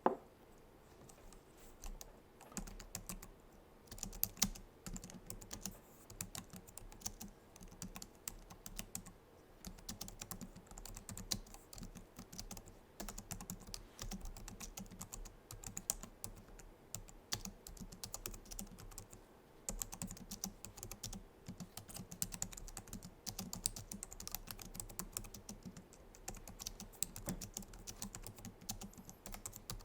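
Fast, continuous typing on a Logitech MX Keys keyboard, its low-profile scissor-switch keys clicking, starting about two seconds in with a short break about two-thirds through. A single sharp knock right at the start is the loudest sound.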